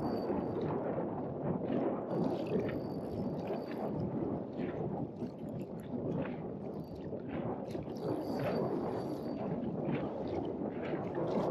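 Wind buffeting the microphone, with choppy lake water lapping and gurgling against an inflatable boat.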